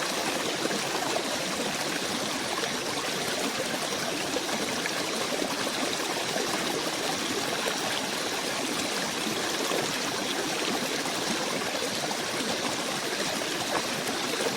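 Steady rush of running water from a stream, even and unbroken throughout.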